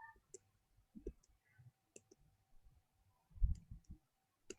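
Faint scattered clicks, with a soft low bump about three and a half seconds in, over a faint steady tone.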